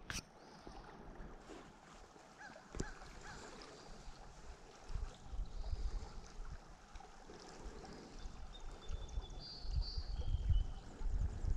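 Creek water running faintly over a steady background, with low rumbling bumps on the microphone that grow more frequent near the end.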